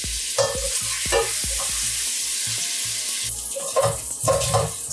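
Andouille sausage and tasso sizzling in oil in a stainless steel pot, with a spoon knocking and scraping against the pot as the meat is lifted out; the scraping gets busier near the end.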